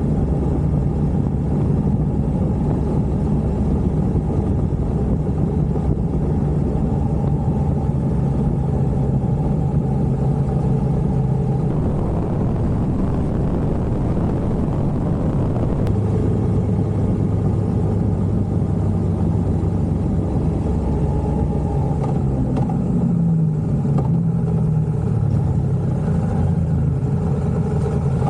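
A motor vehicle's engine running steadily on the move. The note breaks up about twelve seconds in and settles lower a few seconds later.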